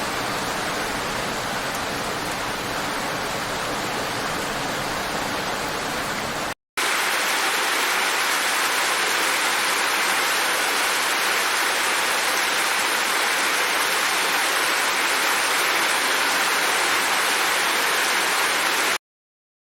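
Steady rain falling as a dense, even hiss. It drops out for a split second about six and a half seconds in, comes back slightly louder and brighter, then cuts off abruptly shortly before the end.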